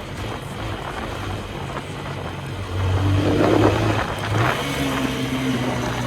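TVS Apache RTR 160 4V motorcycle's single-cylinder engine running under way, with wind rushing on the microphone; the engine gets louder about three seconds in.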